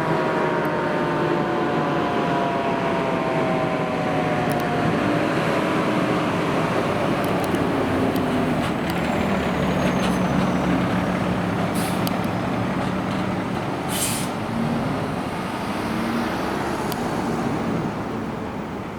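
A 2013 Seagrave Marauder II fire engine's siren sliding down in pitch and fading over the first few seconds. The truck's engine and road noise follow, with short high hisses about twelve and fourteen seconds in, and the sound falls off near the end.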